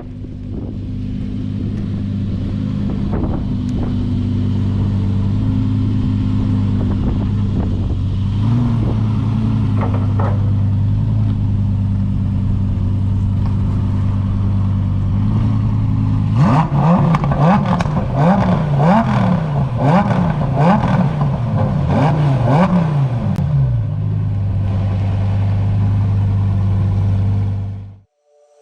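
Lamborghini Huracán EVO RWD's naturally aspirated 5.2-litre V10 idling steadily, then blipped through about half a dozen quick revs, roughly one a second, before settling back to idle. The sound cuts off abruptly near the end.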